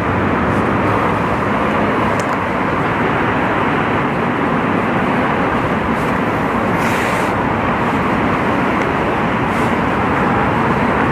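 A train running at the station: a loud, steady rumble, with a short hiss about seven seconds in.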